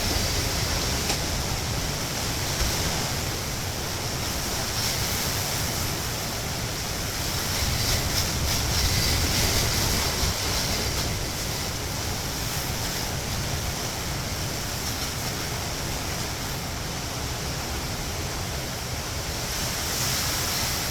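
Hurricane wind blowing hard and continuously, a low rumble with a hiss over it, swelling in a stronger gust about eight to ten seconds in.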